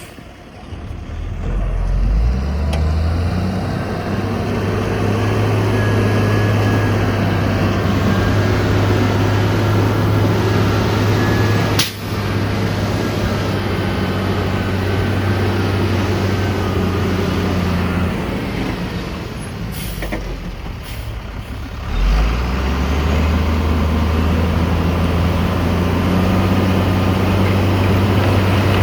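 Heavy diesel engine of a bulldozer or dump truck working under load. It revs up about two seconds in and runs steadily. It eases off for a few seconds past the middle, then revs back up and holds.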